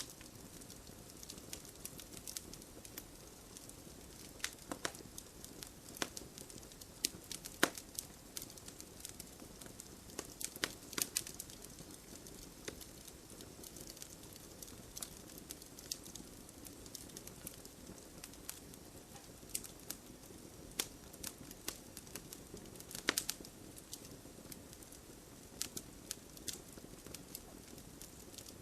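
Fire burning in a fireplace, crackling with irregular sharp pops over a low steady hiss; a couple of pops stand out louder, about eight seconds in and near the end.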